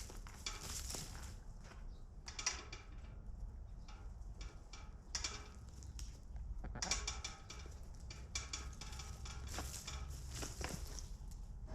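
Chickens moving about in a coop: an uneven run of short clicks and scratchy rustles over a low steady hum.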